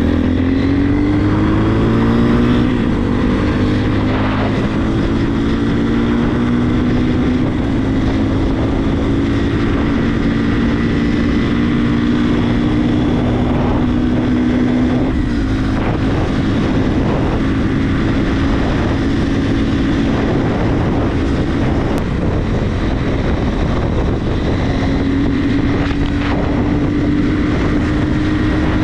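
Regulmoto TE enduro motorcycle engine under way, its pitch climbing as it speeds up over the first few seconds, then holding a steady cruise with wind rushing over the microphone. The engine note drops briefly around the middle and rises again near the end.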